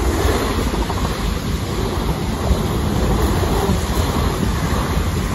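Two coupled Class 444 Desiro electric multiple units, ten carriages, passing close by: a steady rushing of wheels on rail and moving air, with wind buffeting the microphone.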